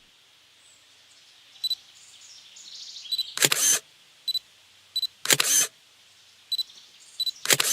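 Camera taking three shots: short high focus-confirmation beeps, each followed by a loud shutter release, roughly two seconds apart.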